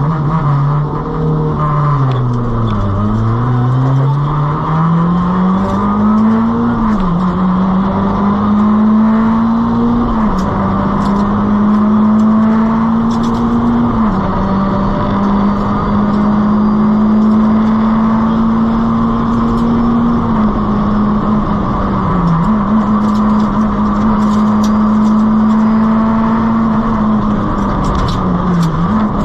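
Nissan Micra K11 rally car's 1.3-litre four-cylinder engine running hard at high revs: the pitch dips and climbs back about three seconds in, then rises slowly and drops sharply at upshifts around seven, ten, fourteen and twenty seconds in, with brief lifts later on.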